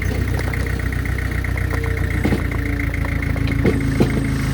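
Diesel engine of heavy equipment idling steadily, with a few metallic knocks about two, three and a half, and four seconds in.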